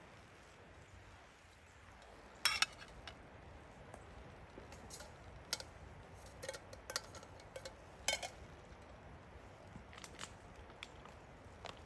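Irregular sharp clicks and clinks of small hard objects being handled, about a dozen spread across the stretch, the loudest at about two and a half seconds and at eight seconds, over a faint steady hiss.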